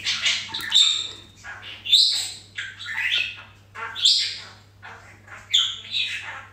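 A bird calling over and over with short, high, downward-sweeping squawks, about one a second, over a steady low hum.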